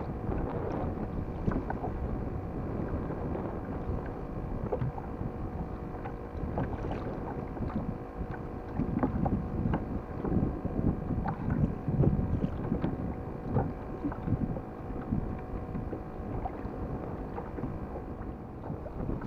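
Wind buffeting the action camera's microphone on a kayak at sea, with the low rumble of water around the hull and occasional small knocks. The gusts grow stronger for several seconds in the middle.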